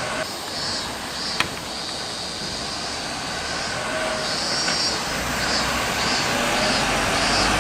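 Trackside rumble of approaching vehicle noise growing gradually louder, with a sharp click about a second and a half in and repeated short high chirps above it.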